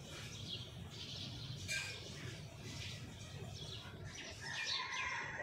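Faint chirps of small birds, with light scratchy rustling of breadcrumbs being pressed by hand onto a shaped chicken patty.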